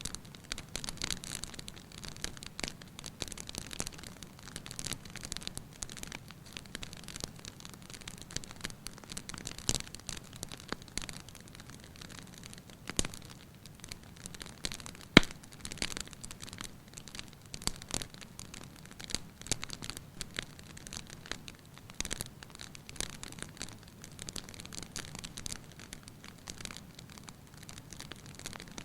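Fire burning in a fireplace, crackling continuously with scattered small pops and one sharp, loud pop about fifteen seconds in.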